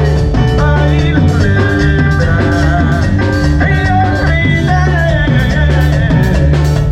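Live cumbia band playing at full volume, recorded through a camera microphone: a steady beat of percussion strokes over a strong bass line, with held melody lines on top.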